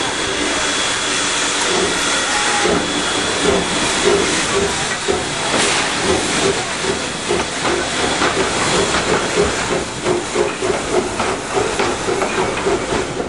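Steam locomotive hissing steam in a loud, steady hiss. In the second half a quick, regular pulsing joins it.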